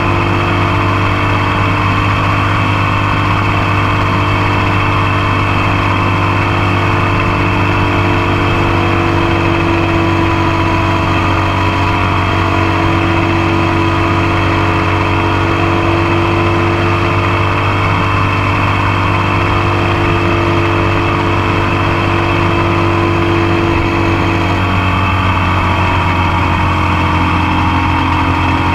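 Motorcycle engine running steadily at cruising speed, heard close up from the passenger foot peg; about 25 seconds in the engine note drops slightly.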